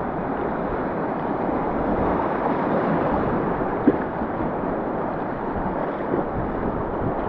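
River rapids rushing steadily around the kayak, a loud even rush of water, with one brief sharp knock about four seconds in.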